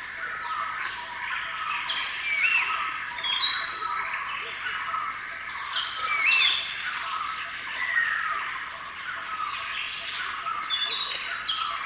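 Many birds calling at once: overlapping chirps, short whistles and quick downward-sweeping calls, with no pause.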